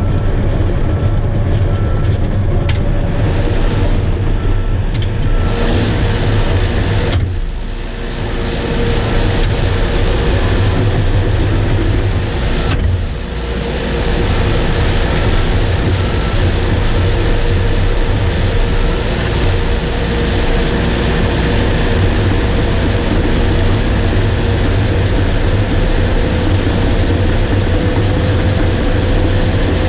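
Bulldozer working, its diesel engine running steadily with a low hum, a few sharp clicks, and two brief dips in the sound partway through.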